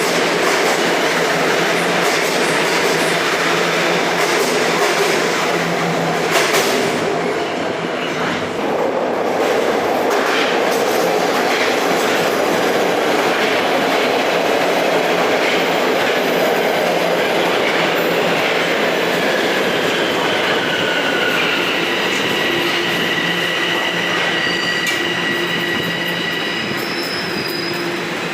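A TTC Toronto Rocket subway train running through the station, a steady loud rumble of wheels on rail with a single knock about six seconds in. High wheel squeal sets in during the second half.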